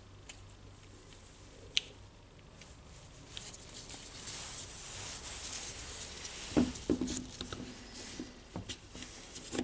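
Parts of a cordless rotary hammer being handled during reassembly: a sharp click about two seconds in, then rustling, and a few knocks with a short ring about seven seconds in.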